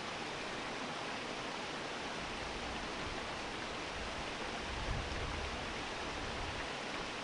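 Waterfall water rushing in a steady, even roar. A low rumble joins it about halfway through.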